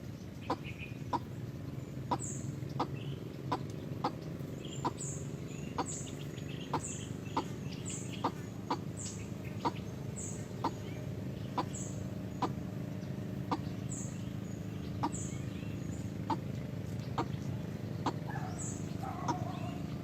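A bird's short, sharp calls repeated evenly, about one and a half a second, over a steady low hum.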